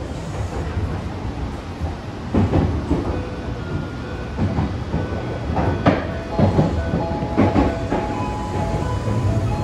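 The 'Blue Symphony' limited express, a Kintetsu electric train, running at speed, heard from inside the carriage. A steady low rumble is broken by irregular clicks and clunks as the wheels pass over rail joints. A few faint steady whines come in about halfway through.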